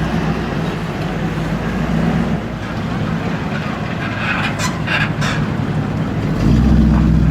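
V8 muscle car engines rumbling at low revs in street traffic, growing louder near the end as a car comes closer. A few brief higher-pitched noises come about halfway through.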